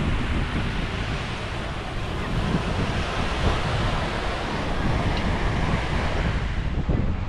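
Sea waves washing onto the shore in a steady surf, with wind buffeting the microphone.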